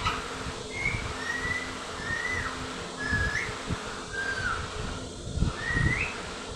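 A series of about seven short whistled notes, some ending in a quick upward or downward bend, from a pet green parrot or from someone whistling to it. There are a couple of low thumps a little past the middle.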